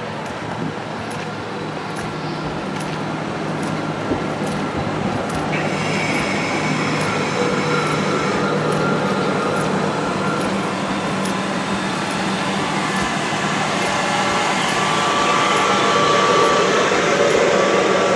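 Electric train running, growing louder, with a steady rumble and a whine that comes in about five seconds in and again later on.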